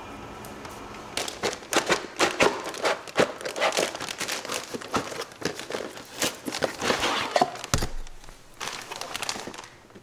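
Crinkling and rustling being handled by hand, a dense run of small crackles and clicks that starts about a second in and dies down near the end.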